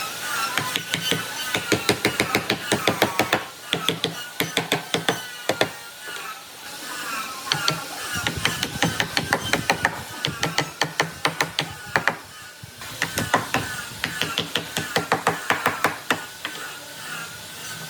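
Quick runs of light hammer taps on wood, several a second, in bursts with short pauses between them.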